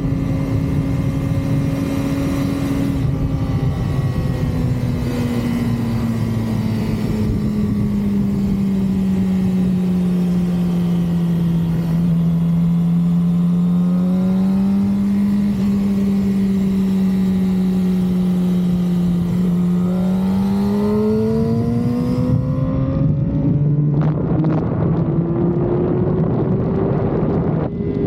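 2006 Yamaha R6's 600 cc inline-four engine running under way with its stock exhaust: the engine note sinks slowly, holds low, then climbs steadily over the last third as the revs rise.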